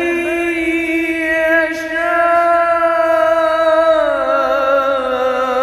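A man's solo Quran recitation: one long melodic note held steady on the words 'yarzuqu man', then falling in pitch about four seconds in.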